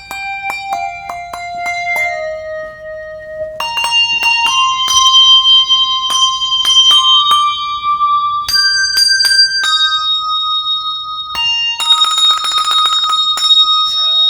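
Cast-bronze handbells ringing a tune, note after note, each struck by its clapper and left to ring on. Near the end comes a rapid run of repeated strikes.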